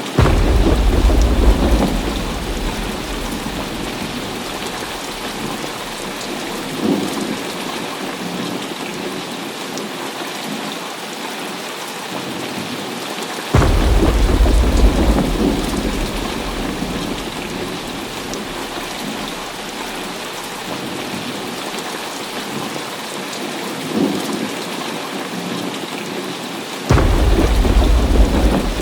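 Heavy rain falling steadily, with deep thunder rumbles breaking in suddenly three times, about thirteen seconds apart, each fading over two or three seconds.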